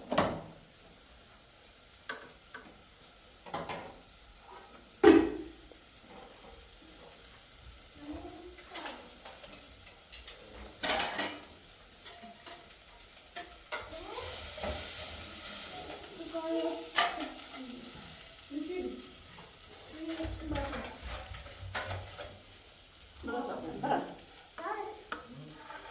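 Cooking in a pan: food sizzling while it is stirred, with a few sharp knocks of the utensil against the pan, the loudest about five seconds in.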